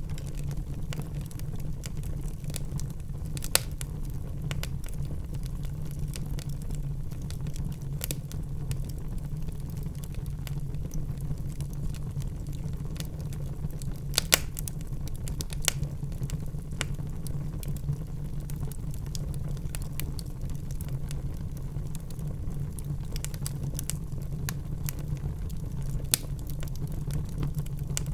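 Wood fire burning in a fireplace: a steady low rumble of the flames with light crackling and a few sharp, irregular pops.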